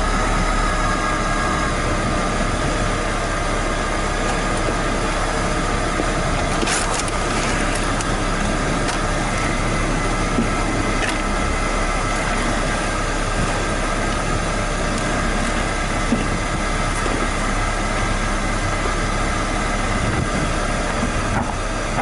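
1997 Saturn SL1's 1.9-litre four-cylinder engine idling steadily while warming up, with its electric cooling fan off. A brief clatter about seven seconds in.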